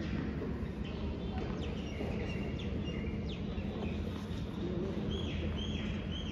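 Birds chirping over a steady low outdoor background noise, with three short, alike calls about half a second apart near the end.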